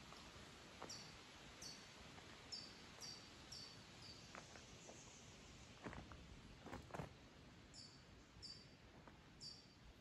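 Faint, high, short chirps from a small bird, about ten of them at uneven intervals, each dropping slightly in pitch. A few soft knocks come around the middle.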